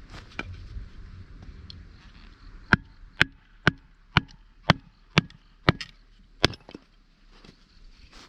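Eight sharp strikes of an all-steel hatchet chopping firewood, evenly paced at about two a second, starting a little under three seconds in.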